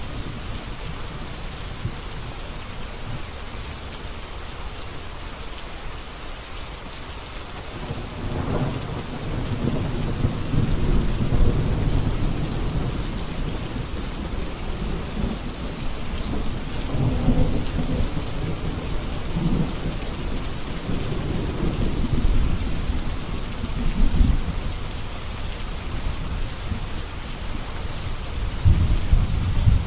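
Steady rain falling, with rolling thunder that starts rumbling about eight seconds in and swells several times, loudest near the end.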